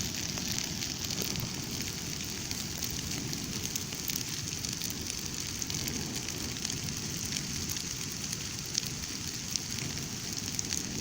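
Brush bonfire of branches and bark burning: a steady hiss with dense fine crackling, and a few sharper pops late on.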